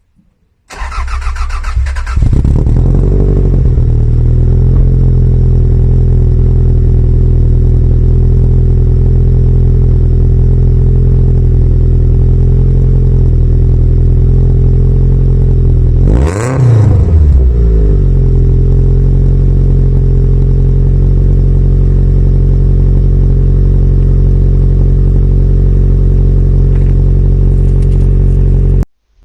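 Toyota MR2 engine starting and idling through a freshly fitted HKS Super Dragger exhaust, with one quick rev about halfway through that rises and falls in pitch. The sound cuts off abruptly near the end.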